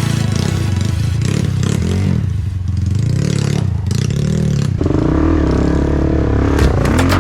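Trail motorcycle engine revving up and down.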